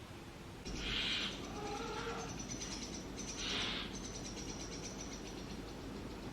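Brahminy starling nestlings begging for food in a nest box: two short raspy hisses, about a second and three and a half seconds in, with a few short lower calls between them and a thin, high, rapid chittering through the middle.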